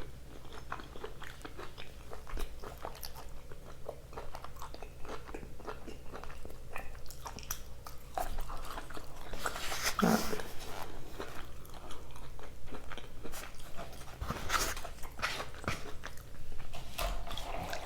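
A person chewing and biting food close to the microphone: soft crunches and many small wet mouth clicks, with one louder, briefly pitched mouth sound about ten seconds in.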